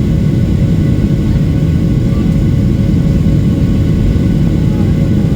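Steady, loud low rumble of a Boeing 737-800 heard inside the passenger cabin: its CFM56-7B jet engines and the airflow running, with a few faint steady tones above the rumble.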